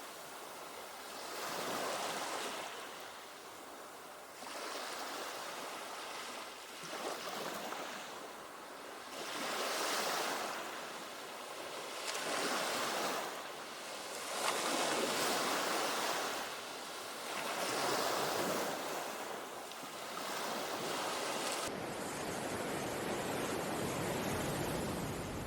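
Ocean surf: waves breaking and washing in, swelling and fading every two to three seconds. A little over twenty seconds in, the sound cuts abruptly to a steady, even hiss.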